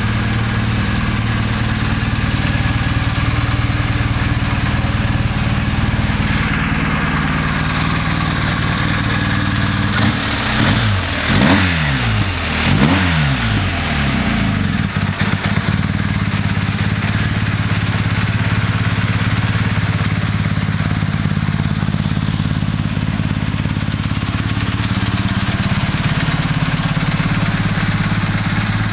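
BMW R 1250's boxer twin engine idling steadily, blipped up and back down two or three times a little over a third of the way through before settling back to idle.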